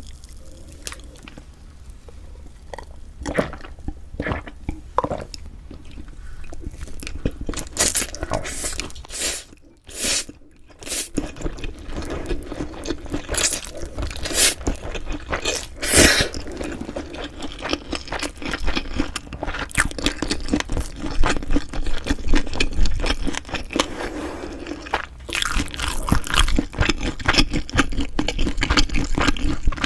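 Close-miked eating sounds: chewing and crunching with many small wet clicks, getting busier and louder partway through.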